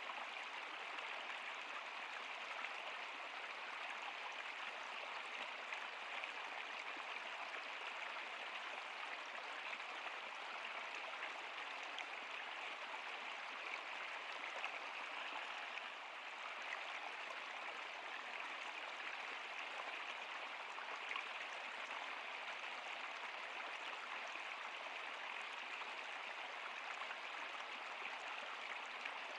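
River water flowing steadily, an even rushing hiss without pauses.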